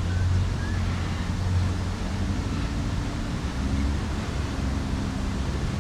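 City night ambience: a steady low rumble of distant traffic with a faint even hiss behind it.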